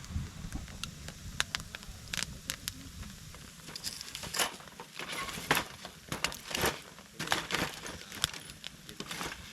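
Wood fire crackling, with irregular sharp pops.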